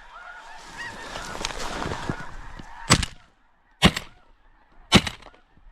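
Snow geese calling, then three shotgun shots about a second apart as the birds decoy in: two of them bring down blue geese.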